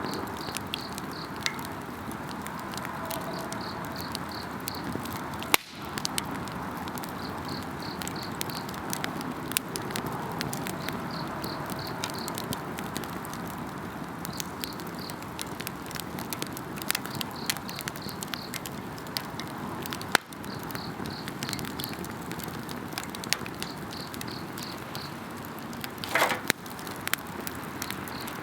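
Wood campfire burning with steady crackling and scattered pops, two of them sharp and loud. A high insect call chirps in pulsing runs of a second or two, starting and stopping.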